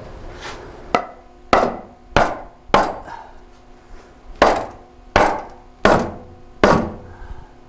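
Hammer blows on a steel exhaust pipe, driving a tight tailpipe section onto its joint: eight strikes in two groups of four, the pipe ringing after each.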